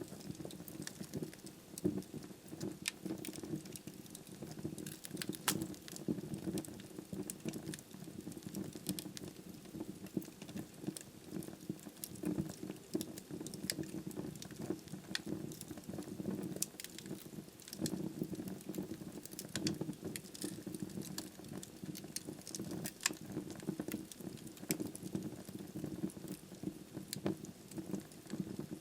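Wood fire burning in a fireplace: logs crackling with frequent irregular sharp pops over a steady low rumble of the flames.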